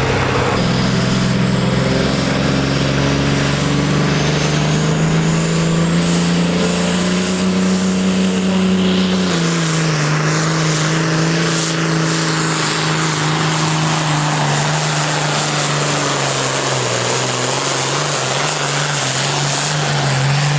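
Pulling tractor's engine running hard under load during a pull, with a high whine that climbs steadily through the first half; the engine's pitch drops a step about nine seconds in and then holds.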